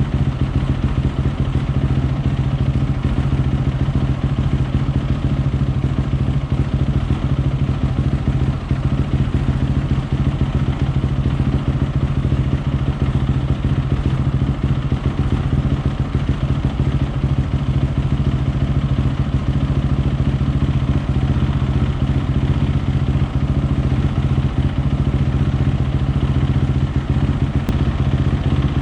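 Honda CRF450R's single-cylinder four-stroke engine idling steadily at an even pitch, warmed up and being checked for an air leak.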